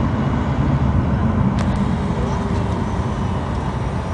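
Cabin noise of a Fokker 100 jetliner during takeoff: a loud, steady roar and rumble from its rear-mounted Rolls-Royce Tay turbofan engines and the airflow, heard from a window seat.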